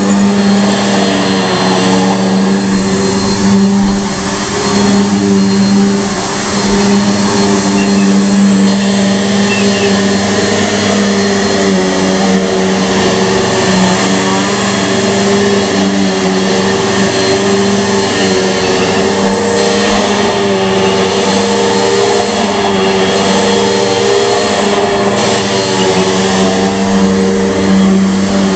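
2008 Bissell PowerForce Bagless 6582 upright vacuum cleaner running: a loud, steady motor hum whose pitch wavers slightly, dipping briefly in loudness about four and six seconds in.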